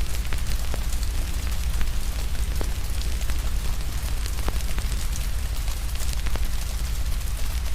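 Fire crackling, with frequent sharp pops, over steady rain and a deep low rumble.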